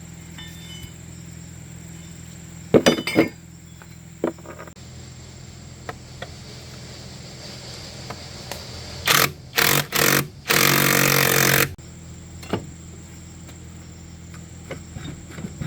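Workshop handling sounds: metal clinks and knocks over a steady machine hum, with a loud hiss lasting about a second roughly two-thirds of the way through.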